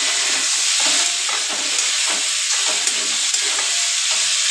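Potato bhujia sizzling in a steel kadhai, with a metal spatula stirring and scraping against the pan in repeated strokes over a steady frying hiss.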